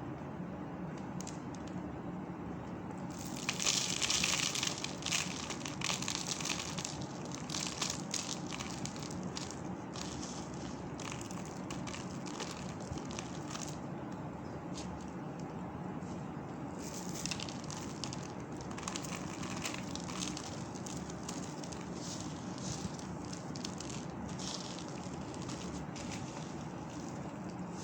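Colourful soap balls being crushed: an irregular run of crunching and crackling, loudest and densest a few seconds in, then continuing more sparsely.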